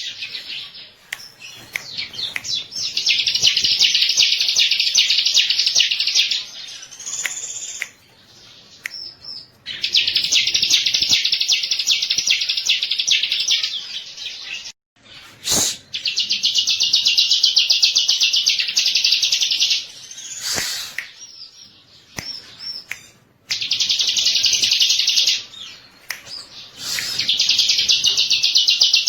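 Bar-winged prinia (ciblek) singing: loud runs of rapid, evenly repeated high chirps, each lasting a few seconds, with short pauses between them. Two sharp clicks break in about halfway through.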